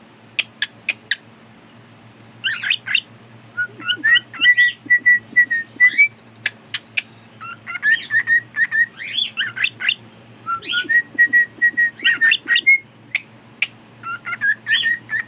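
Pet cockatiel whistling a tune in short phrases of held and sliding notes, broken up with quick chirps and sharp clicks, after a brief pause near the start.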